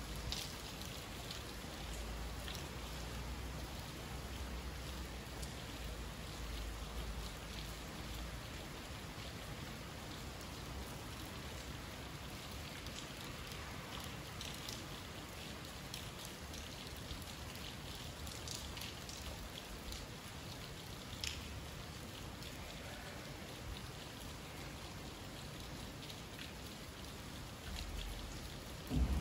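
Summer rain falling steadily, with many individual drops ticking on surfaces. A short thump comes right at the end.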